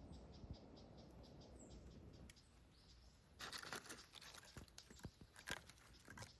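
Campfire crackling: a quick run of sharp pops and snaps begins about three and a half seconds in. Before that there is a low rumble and a faint high chirping that repeats a few times a second.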